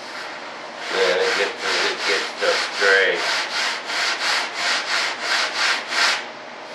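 Sanding block with 80-grit sandpaper rubbed back and forth over a glued-on hardwood edge, about three quick scratchy strokes a second. The strokes start about a second in and stop shortly before the end.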